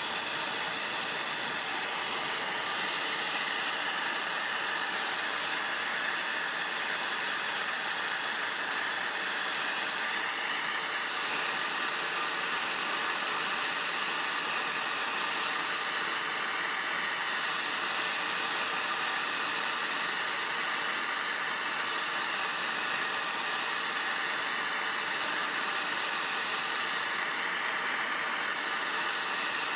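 A heating tool running with a steady, even hiss, heating a rusted-in steel through bolt to free it.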